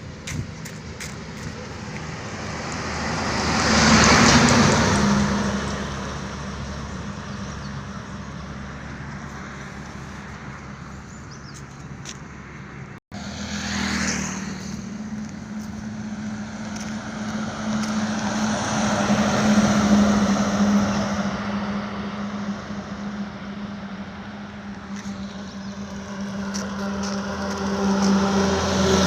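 Road vehicle engine running steadily, with swells of louder traffic-like noise about four seconds in and again around twenty seconds. A brief dropout comes a little before halfway.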